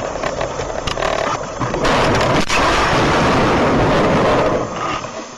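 A car collision picked up by a dashcam microphone: a few clicks, then from nearly two seconds in a loud, rough noise of impact and crunching for about three seconds, which fades near the end.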